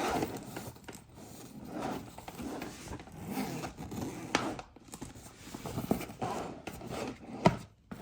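Expansion zipper on a hard-shell backpack being pulled around the case in short, uneven drags, with scraping and handling of the shell. A sharp click sounds near the end.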